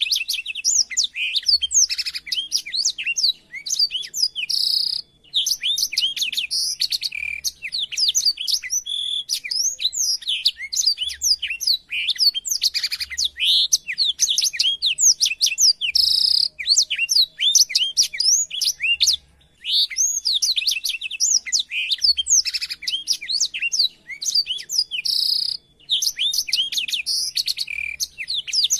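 Blackthroat (black-throated canary) singing a long, fast warbling song of rapid high twittering notes, in extended phrases broken by brief pauses.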